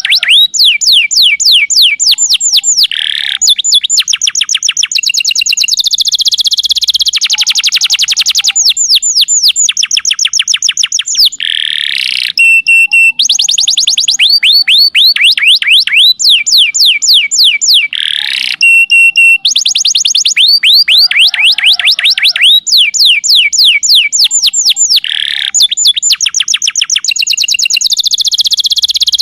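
Domestic canary singing: long rapid trills of downward-sweeping notes, many to the second, changing from one trill to the next, with a couple of short held whistles.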